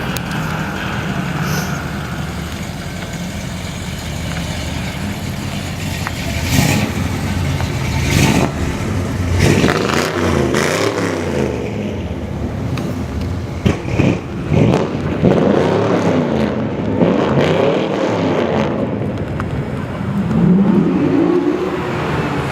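Cars driving off one after another, their engines revving and accelerating so the pitch sweeps up and down several times. There are a few short, sharp bursts of noise along the way.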